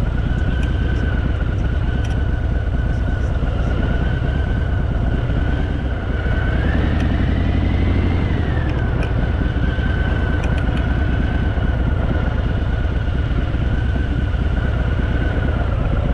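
Harley-Davidson motorcycle's V-twin engine running steadily under way. About six seconds in it speeds up for a couple of seconds, rising in pitch, then drops back to its earlier steady note.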